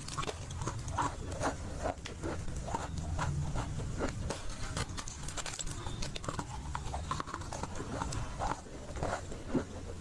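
Close-miked biting and chewing of dry Nakumatt clay: a rapid, irregular run of short, crisp crunches.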